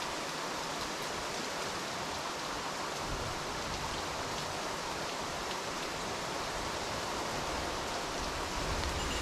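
Steady, even rush of water, with no distinct events.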